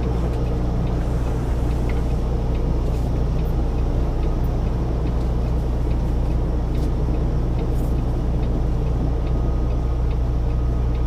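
Semi-truck diesel engine running steadily at low revs as the tractor-trailer is slowly backed into a dock spot.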